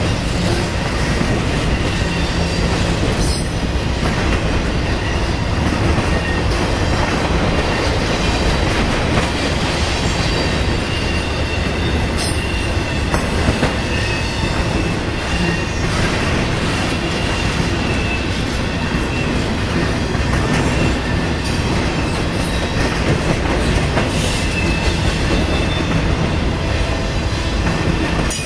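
Freight train cars rolling past: a steady rumble of steel wheels on rail, with a faint high wheel squeal and a few clicks over the rail.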